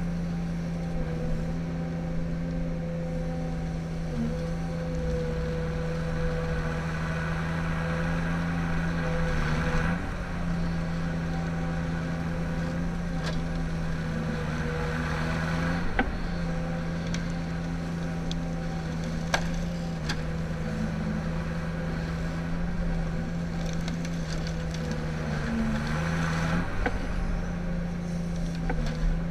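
Ponsse Ergo forestry harvester's diesel engine running steadily, its pitch dipping briefly a few times as load comes on. A few sharp clicks sound over it.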